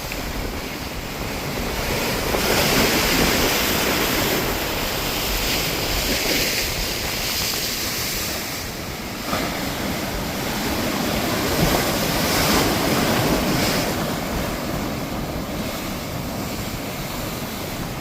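Heavy storm surf breaking and washing against the inlet, a steady rushing of water that swells twice as larger waves come in. Wind buffets the microphone throughout.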